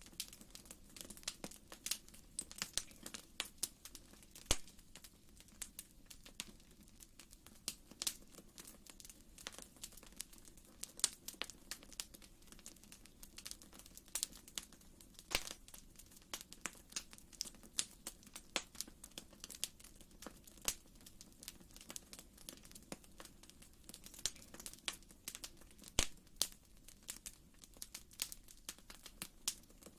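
Wood fire in a fireplace crackling, with irregular sharp pops and snaps over a faint steady low rumble of the flames.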